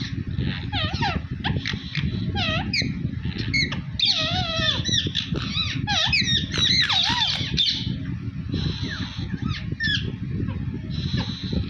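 Pet green parrot calling in quick runs of wavering, rising and falling squawks and chatter, densest in the middle, with a couple of harsher, steadier screeches near the end. The bird is agitated and angry.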